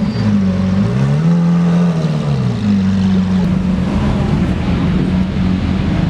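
A car engine revs up briefly, drops back, then runs at a steady speed.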